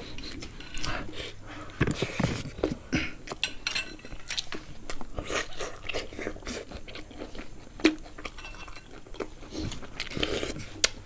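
People chewing and crunching roasted pig head meat, a run of short, irregular wet clicks and crackles, with an occasional clink of cutlery against a dish.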